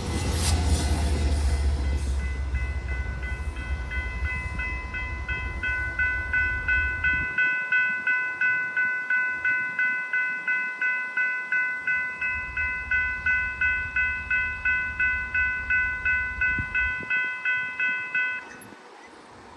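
The tail of a passenger train rumbles past a road crossing and fades. A railroad grade crossing bell rings steadily at about two strikes a second, then stops abruptly near the end as the crossing signal shuts off.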